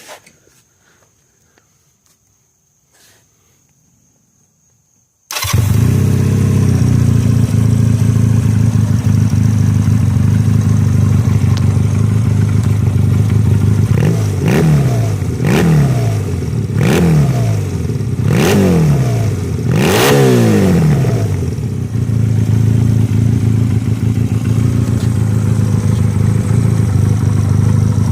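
Trike engine with freshly fitted shorty mufflers, cut down to about 4 inches from the crossover, starting up about five seconds in and catching at once. It idles, is blipped through about five quick revs, each rising and falling, then settles back to a steady idle.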